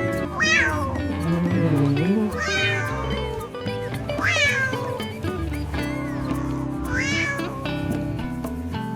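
A cat meowing four times, each call rising then falling in pitch, over steady background music.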